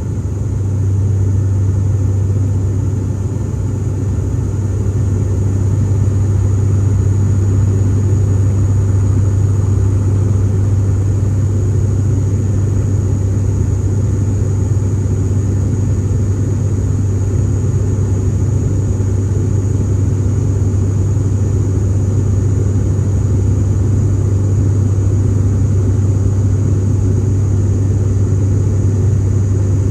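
Cabin drone of an ATR 72-600's turboprop engines and six-blade propellers in flight: a steady, loud low hum with rushing noise over it, rising slightly in the first few seconds.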